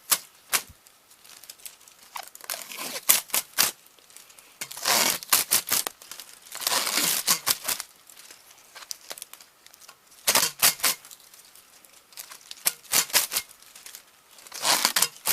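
Old foam strip being picked and torn out of a VHS cassette shell: irregular crackling, tearing rustles and sharp clicks in short bursts with pauses between.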